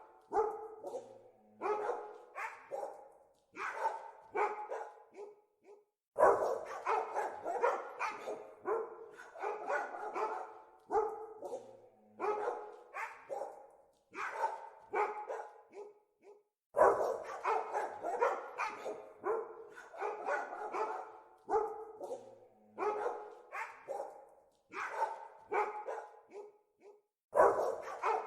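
Dogs barking in rapid volleys of short, overlapping barks, with brief pauses between the volleys and a fresh, denser burst of barking starting suddenly three times.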